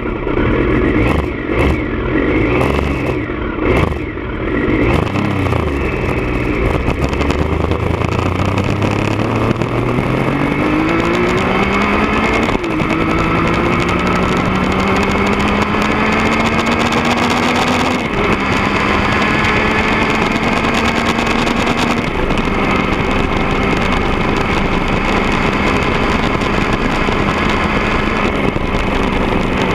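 Triumph Daytona 955i's three-cylinder engine through a D&D aftermarket exhaust, running unevenly for the first few seconds and then accelerating with a rising pitch. The pitch drops sharply at a gear change about twelve seconds in, climbs again more slowly, and then holds steady at a cruise.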